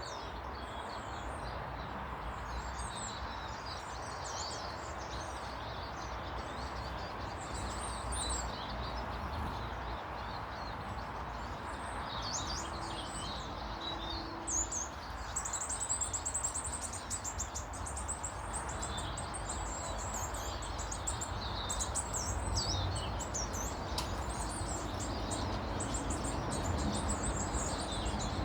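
Small garden birds chirping and twittering, several at once: many quick, high chirps and trills that grow busier about halfway through, over a steady low background noise.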